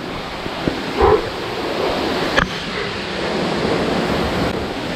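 Rushing river water, a steady hiss of flowing water, with a short grunt about a second in and a sharp click at about two and a half seconds.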